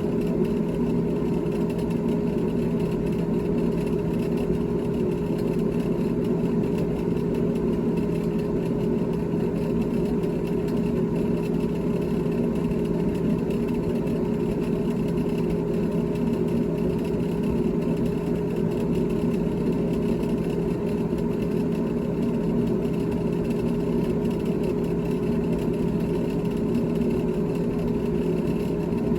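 GE GTH18XCTZRBB refrigerator running: a steady mechanical hum with several fixed tones that does not change.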